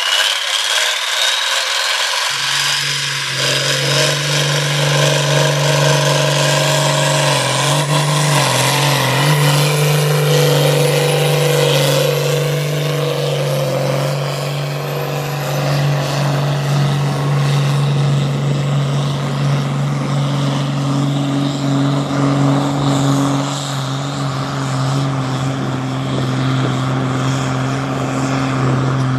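Tractor-pulling tractor's engine running hard at steady high revs, its note holding nearly level, with a high whine that climbs steadily over the first dozen seconds.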